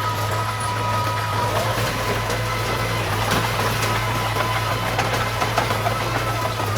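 Diesel engine of heavy earthmoving machinery running at a steady speed, a constant low hum with a few short clicks and rattles over it.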